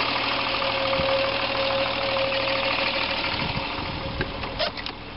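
1977 Triumph 2000TC's two-litre straight-six idling steadily while still warming up after a cold start, with a steady whine running alongside the engine note. A few light clicks near the end.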